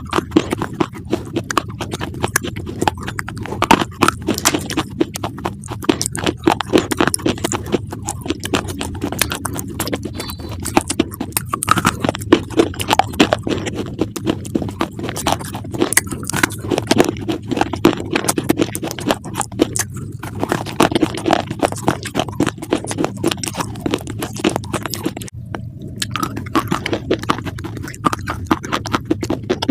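Close-miked chewing of crunchy food: a dense, irregular run of crisp crunches and crackles.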